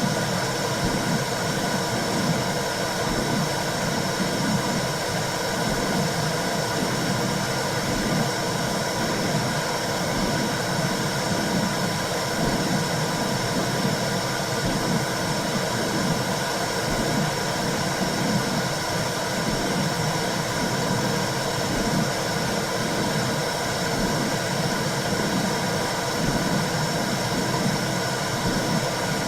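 Simulated womb sound for calming a baby: a steady rushing noise with a low whooshing pulse about once a second.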